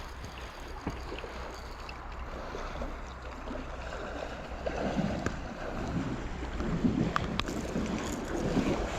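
River water running with wind on the microphone, with louder, uneven water sounds in the second half.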